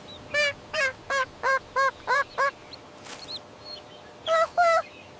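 Cartoon duckling quacking: a quick run of about seven short honking quacks, then two more near the end.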